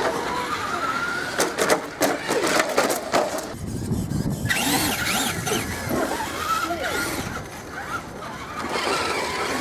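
Children making car sound effects with their voices: wavering engine noises and squeals. A quick run of clicks and knocks comes from about one and a half to three seconds in, and a low rumble follows around four seconds in.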